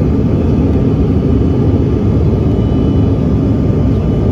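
Steady, loud rumble of an airliner's engines and rushing air, heard from inside the passenger cabin.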